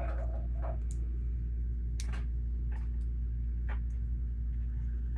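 A few sharp clicks of plastic Lego pieces being handled and pressed together, over a steady low hum.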